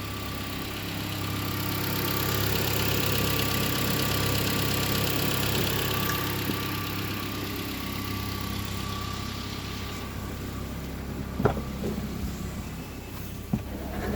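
2010 Hyundai ix35's 2.4-litre four-cylinder petrol engine running steadily at idle. A couple of sharp knocks come near the end.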